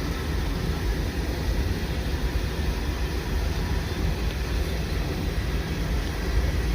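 CN freight train rolling past, a steady low rumble of wheels on rail, heard from inside a car.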